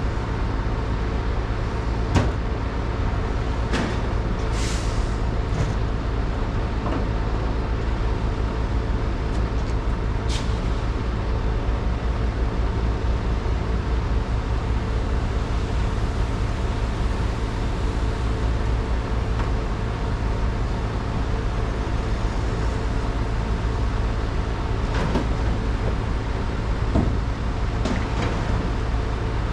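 Heavy truck running steadily on the road, its engine drone constant, with a few scattered knocks and rattles and a short hiss about five seconds in.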